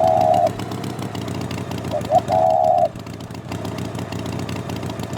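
An engine running steadily, with two short higher tones about two seconds apart, each a quick blip followed by a held note of about half a second.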